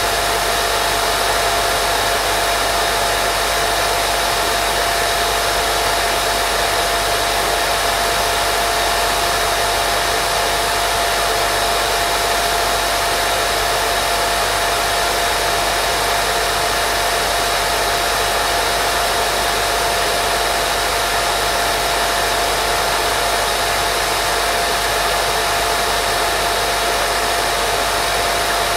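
Steady white noise of the kind played for baby sleep: an unbroken, even hiss with a faint steady tone running through it.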